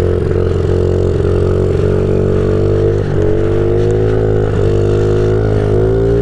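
2015 Honda CRF50's small single-cylinder four-stroke engine running under throttle while riding. The pitch holds fairly steady, dips briefly about three and four and a half seconds in, then climbs near the end.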